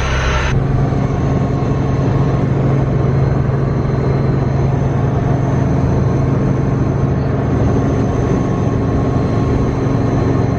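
Helicopter engine and rotor noise heard inside the cabin: a loud, steady drone with a deep hum and a thin high whine over it.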